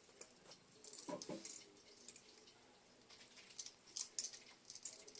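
Hugger ceiling fan coasting down after being switched off, its motor freshly oiled. It is faint, with light irregular clicks and rattles and a brief higher-pitched sound about a second in.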